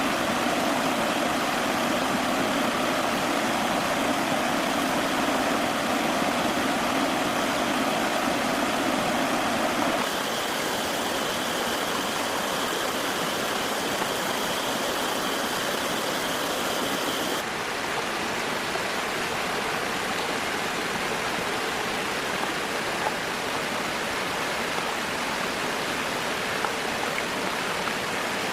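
Steady rushing noise like running water. Its character changes abruptly twice: a low hum under it stops about a third of the way in, and the sound thins again past the middle.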